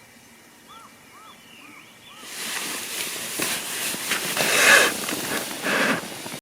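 A bird calls faintly several times in quick succession. From a little over two seconds in, close rustling and handling noises take over and grow louder to the end.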